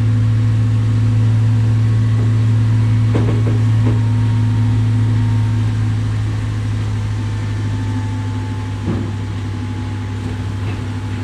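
Excavator's diesel engine running at a steady speed, with a few short knocks about three seconds in and again near the end; the engine gets a little quieter from about halfway.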